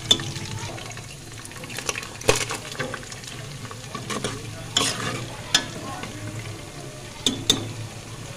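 Sliced onions frying in hot oil in a kadai, with a steady sizzle. A wooden spatula stirs them, giving about six sharp clicks against the pan, two of them close together near the end.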